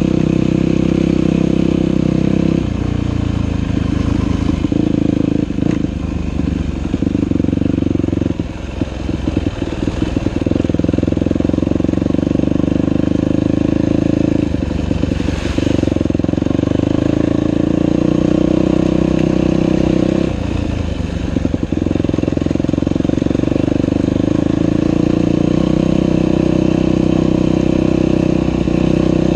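Dirt bike engine running on a trail ride, its note rising and falling as the throttle is worked, with the throttle briefly backed off twice. A short rushing hiss comes about halfway through.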